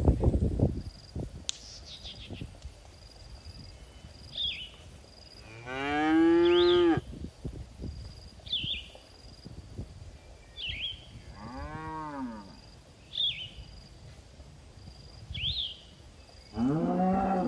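Cows mooing: three long moos, the first, about six seconds in, the loudest and longest, a second near the middle and a third starting near the end. A short high chirp repeats about every two seconds behind them.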